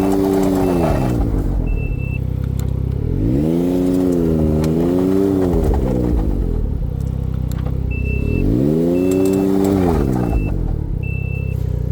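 A 2023 Ford Expedition's twin-turbo 3.5 L EcoBoost V6 being revved three times in slow blips. Each rev rises, holds briefly and falls back to idle. Scattered sharp clicks sound over the engine, and a high beep repeats in short pulses near the end.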